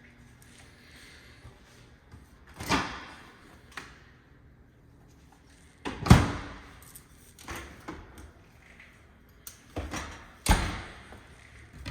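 A series of separate knocks and thuds of doors being opened and shut, about five in all, the loudest about six seconds in, each with a short echo off hard walls.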